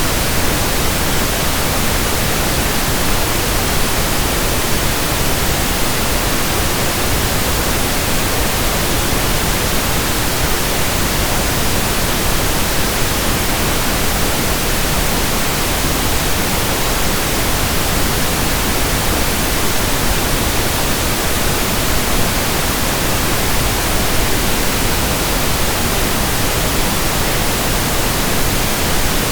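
Steady synthetic pink noise: an even, unchanging hiss with no rhythm or events.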